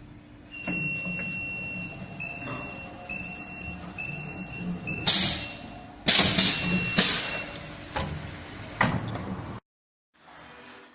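EPDM gasket inserting machine running with a steady high whine and an intermittent lower tone, then several loud, short hissing bursts. The sound cuts off suddenly near the end.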